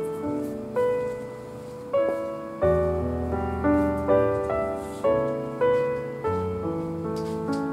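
Background piano music: notes struck and left to fade in a gentle melody over lower chords.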